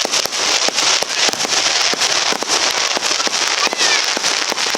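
Aerial fireworks bursting in a dense, continuous crackle: many rapid sharp cracks and pops, one on top of another.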